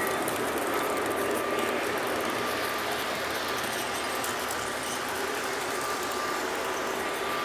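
Steady train running noise, an even rumble with light clicking along the rails and a faint steady tone.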